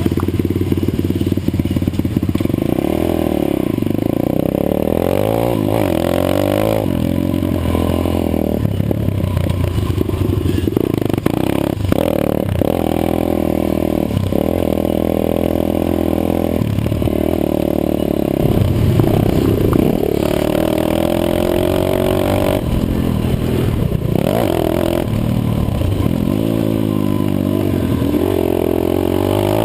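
150cc pit bike's single-cylinder four-stroke engine being ridden hard, revving up and falling off again and again with short drops in between.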